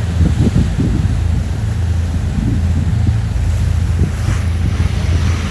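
Wind buffeting the microphone on a moving tour boat, over the steady low drone of the boat's engine and water rushing past the hull.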